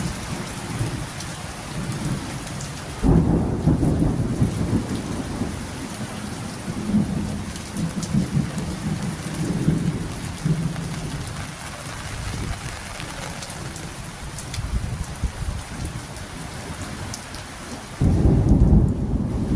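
Steady rain falling, with scattered drop ticks and a deep rumbling underneath that swells and fades. The rumble jumps abruptly louder about three seconds in and again near the end.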